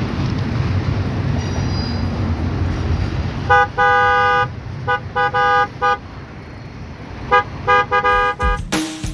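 Diesel locomotive's multi-chime air horn blowing a series of long and short blasts over the low rumble of a passing train. Another sound starts right at the end.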